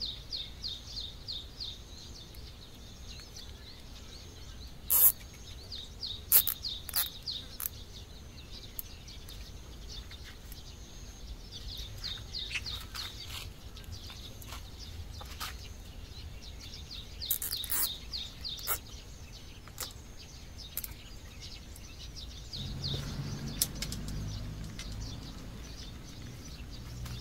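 A songbird repeating runs of quick, high chirps. Sharp clicks come now and then as plastic cable ties are pulled tight and snipped on a garden arch frame, and a low rumble rises near the end.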